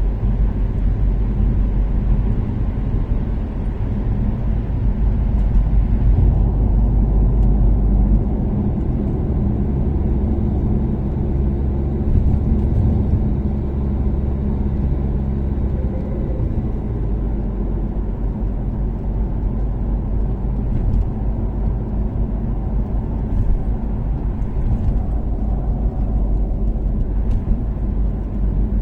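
Toyota Caldina ST246W's turbocharged 3S-GTE four-cylinder engine, breathing through an aftermarket ATR sports exhaust, running at steady cruise along with tyre and road noise on an expressway. The engine note shifts a little in pitch a few times as the throttle changes, with a few faint clicks near the end.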